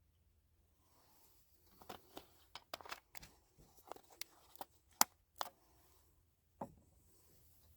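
A run of irregular, faint clicks and knocks, as of small objects being handled, the sharpest one about five seconds in.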